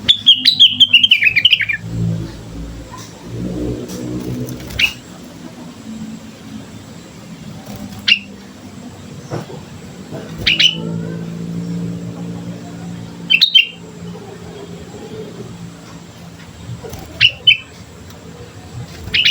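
Sooty-headed bulbul singing: a quick run of notes falling in pitch at the start, then short single calls every few seconds, a pair close together near the end. A low hum runs underneath, swelling twice.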